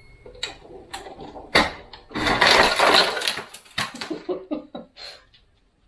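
Ice cubes clinking and rattling: scattered sharp clicks, then about a second of loud crackling rattle a little after two seconds in, then more clicks that die away.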